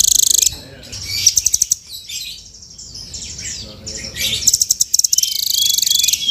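Velvet-fronted nuthatch (rambatan) singing: high, very fast rattling trills in three bouts, the last and longest from about 4.5 s in, with short chirps scattered between them.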